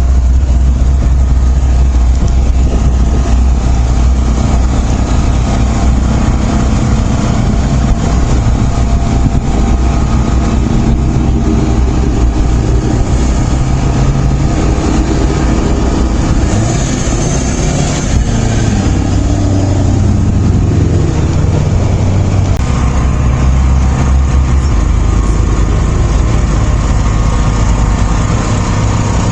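A motor vehicle's engine running loudly and steadily, with a deep hum. Its note shifts a few times past the middle.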